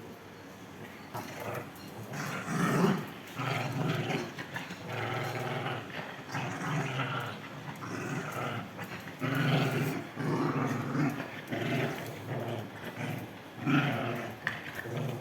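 A pet animal growling in a series of short, rough vocal bursts, one after another with brief gaps.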